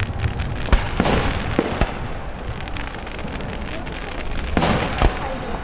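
Aerial fireworks shells bursting: a cluster of sharp bangs in the first two seconds and another pair near the end, with crackling in between.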